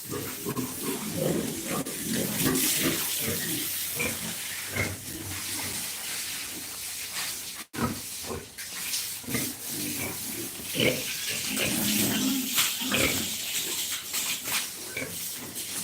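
Pigs grunting: many short, irregular grunts overlapping over a steady hiss. The sound drops out for an instant about halfway through.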